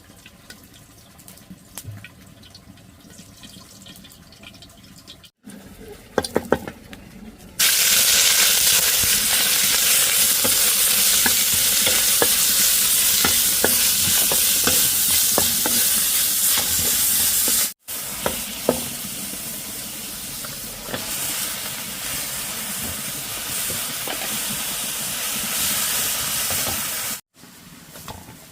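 Food frying in hot oil in a pan, a loud sizzle that starts abruptly about a quarter of the way in, with the clicks and scrapes of a utensil stirring it against the pan. The sizzle breaks off once partway through, resumes a little quieter, and stops shortly before the end; before it there are only faint clicks.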